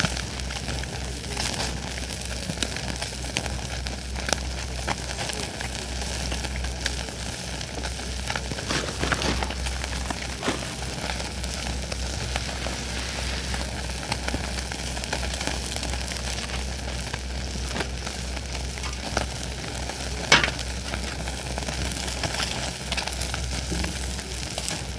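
Food sizzling over a campfire in a steady hiss, with scattered crackles and pops from the fire. One sharper pop comes about 20 seconds in.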